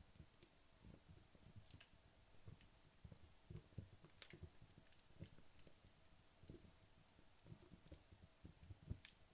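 Faint, irregular crackles and small pops from wood logs burning low in a fireplace, a sharp snap every second or so over a soft hiss.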